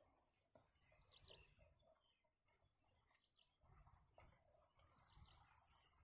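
Near silence: quiet outdoor ambience with a few faint, high bird chirps, about a second in and again near the end, over a faint steady high whine that pulses about two to three times a second from about halfway.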